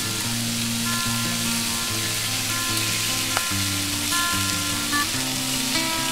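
Pork belly sizzling in its own fat on a hot camping griddle, a steady crackling hiss, with background music playing over it.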